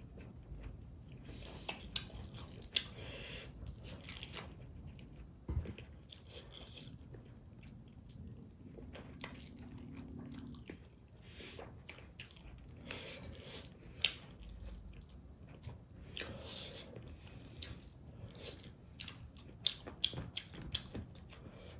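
Close-up chewing and crunching of food, with many sharp clicks of biting scattered through it.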